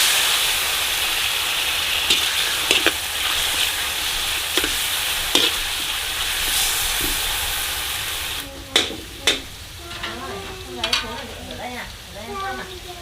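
Food hitting hot oil in a pan and sizzling loudly at once, with a few sharp clicks of a utensil against the pan as it is stirred. The sizzle eases off after about eight and a half seconds.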